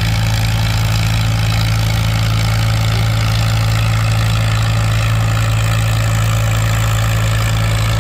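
Farmall M pulling tractor's engine running steadily at a constant pitch under heavy load while dragging the weight sled. The tractor is 'scratching', clawing slowly forward near the end of its pull.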